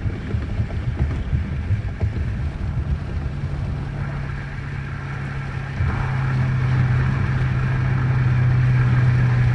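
Dodge Charger R/T's 5.7 L Hemi V8 running under way, heard from inside the cabin. Its steady drone grows louder about six seconds in.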